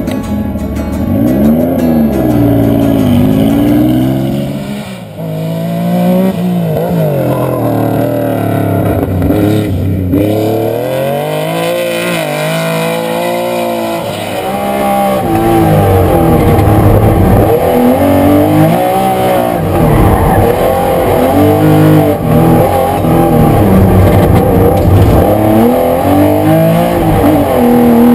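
Porsche 911 RSR Group 4's air-cooled flat-six engine revving up and falling back again and again as the rally car is driven hard through the corners and gear changes.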